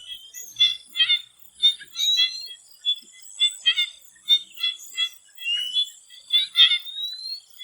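Swamp frogs calling in a chorus of short, sharp notes, one to two a second, with a few rising whistled glides among them and a steady high insect buzz behind.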